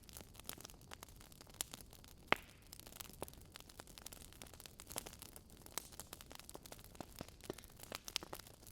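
Logs burning in a fireplace, crackling with irregular small pops and snaps, one sharper pop a little over two seconds in.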